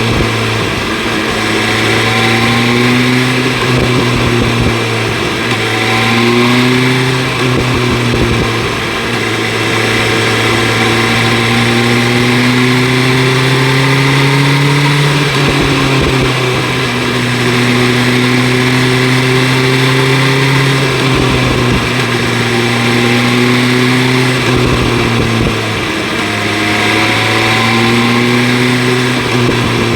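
2025 BMW S1000 RR's inline-four engine through an Akrapovic exhaust while riding: the engine note climbs steadily in pitch several times, each climb followed by a fall in pitch, over a steady rush of wind and road noise.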